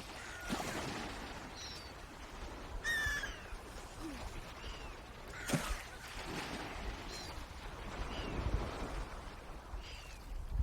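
Birds calling: short, high, hooked calls repeated every second or so, one louder call about three seconds in, over a steady watery or windy background with low rumbles and a sharp click midway.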